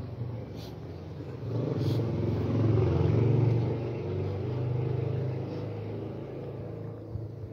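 A motor vehicle's engine running close by, growing louder over a couple of seconds and then fading away.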